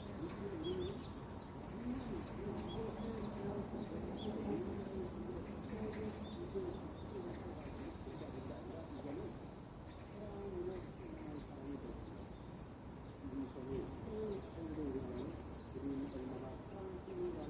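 Outdoor morning ambience: a few faint, short bird chirps, mostly in the first few seconds, over a low, indistinct wavering sound that runs throughout.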